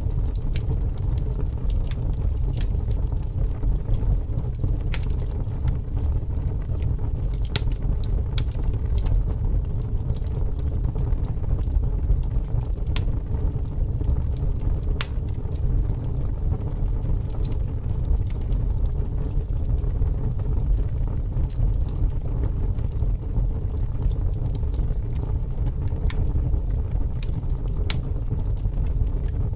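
Fire burning: a steady low rush with scattered sharp crackles and pops.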